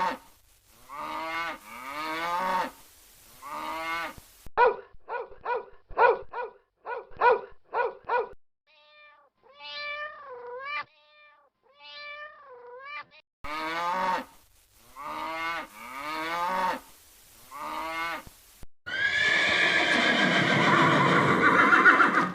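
Farm animal calls played one after another. First come several pitched calls, then a quick run of short repeated calls, then a few drawn-out calls that waver in pitch, then more pitched calls. Near the end is one loud, harsh call lasting about three seconds.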